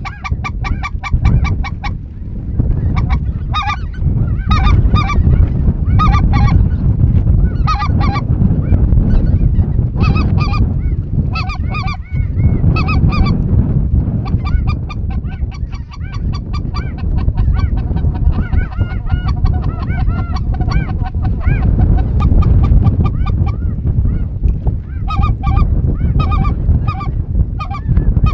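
A large flock of geese calling, many overlapping honks in repeated bursts, over heavy wind rumble on the microphone.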